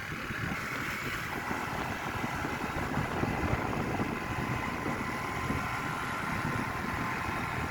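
Steady vehicle engine noise with a low rumble.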